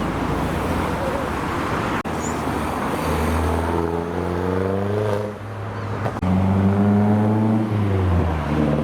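Modified cars driving past: road and tyre noise at first, then engines accelerating with a rising note, the last one loudest, its pitch climbing and then dropping near the end.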